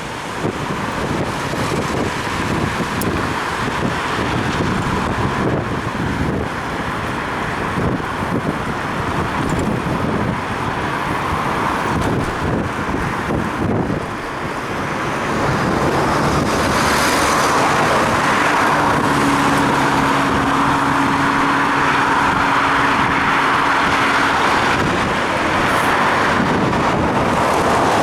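Road traffic heard while cycling on wet streets, with wind buffeting a head-mounted camera's microphone. About halfway in, the hiss of tyres on the wet road grows louder, and a motor vehicle's engine hum comes in for several seconds.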